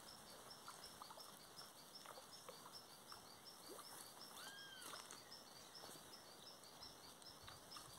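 Near silence: faint outdoor ambience with a soft chirp repeating about three times a second and a single whistled bird note, rising and falling, about four and a half seconds in.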